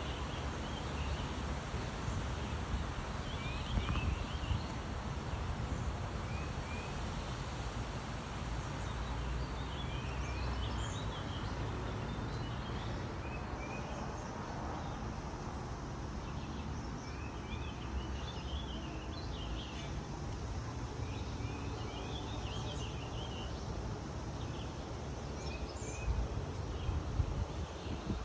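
Small birds chirping outdoors: short high chirps in scattered clusters every few seconds, over a steady low rumble.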